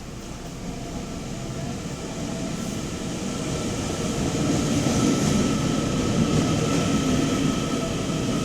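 TEMU2000 Puyuma tilting electric multiple unit pulling into the station, its rumble growing louder over the first five seconds or so, with a steady motor whine over it.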